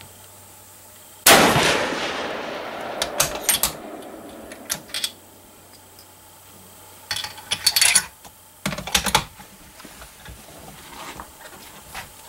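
A single Remington bolt-action hunting rifle shot about a second in, its report fading away over a couple of seconds, followed by several short groups of clicks and rattles as the bolt is worked.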